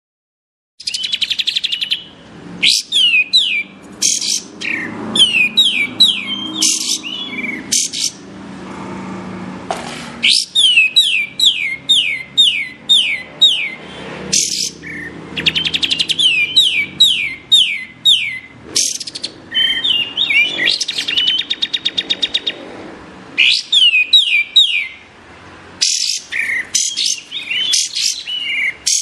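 Kapas tembak songbird singing: after a second of silence, loud phrases of quick, sharp notes sweeping downward, separated by brief pauses, with a fast rattling trill a little past two-thirds of the way through.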